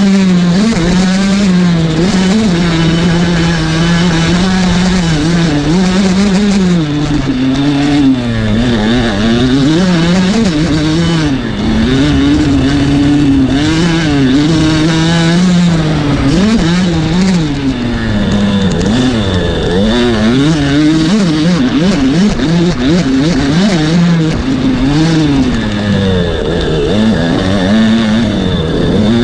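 Kawasaki KX85 two-stroke single-cylinder motocross bike running. Its engine note holds steady for about the first six seconds, then rises and falls over and over as the throttle is worked.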